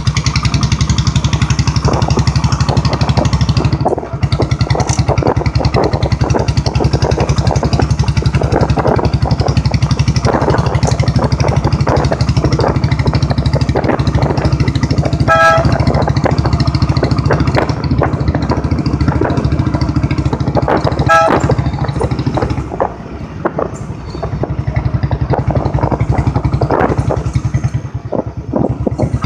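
Royal Enfield Bullet's single-cylinder engine running steadily under way at low speed, with a fast even thump. It eases briefly about three quarters of the way through, then picks up again.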